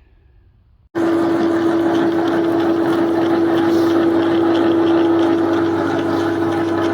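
Milling machine running steadily with a constant whine, drilling a pinhole through the end of a tractor loader's hydraulic ram on automatic feed. It starts abruptly about a second in.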